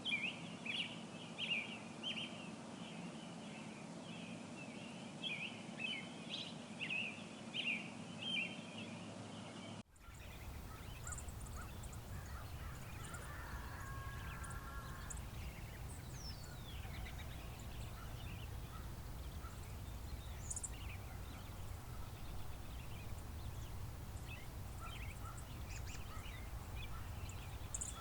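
Wild birds chirping: a dense run of many small overlapping chirps. About ten seconds in the recording switches abruptly to sparser, scattered calls, among them one falling call, over a low steady rumble.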